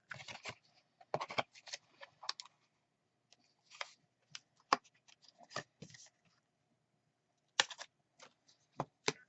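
Small handling noises of card-making supplies on a desk: scattered clicks, taps and rustles at an uneven pace, as a glue dot is taken off its roll and the braiding twine is readied.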